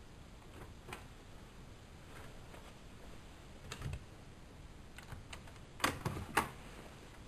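A few light, irregular clicks and knocks, the loudest a quick pair about six seconds in.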